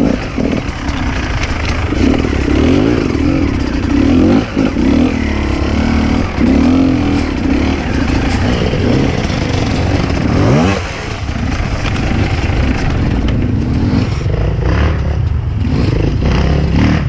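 Enduro dirt bike engine running under constantly changing throttle, its pitch rising and falling, with a quick rev up about ten seconds in.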